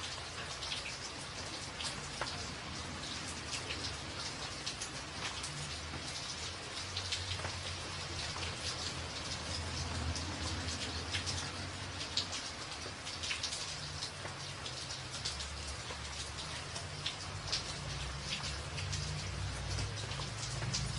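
Steady rain pattering on a tin roof, with many sharp individual drop hits over a continuous hiss. A low rumble underneath swells through the second half.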